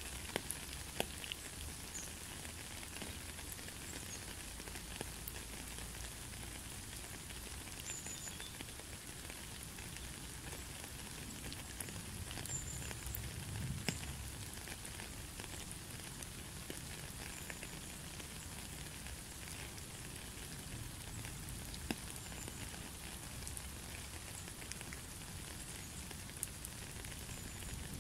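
Heavy rain falling steadily: an even hiss with many single drops ticking into a puddle.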